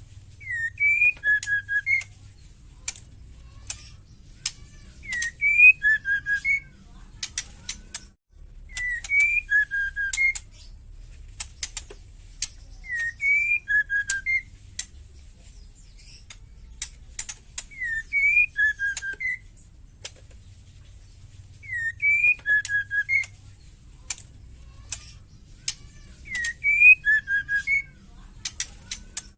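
Female white-rumped shama calling: a short whistled phrase, one rising note and then a few lower notes, mixed with sharp rattling clicks, repeated about every four seconds.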